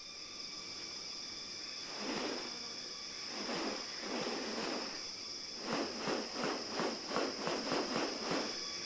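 Insects in rainforest, probably cicadas or crickets, drone steadily at one high pitch. Over the drone comes a series of rustling noises, a few spaced out at first, then a quicker run of about two a second near the end.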